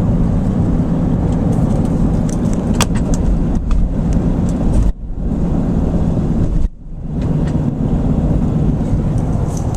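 Truck running on the road: a steady, loud low engine and road rumble, dipping briefly twice, about five and about seven seconds in, with a few sharp clicks.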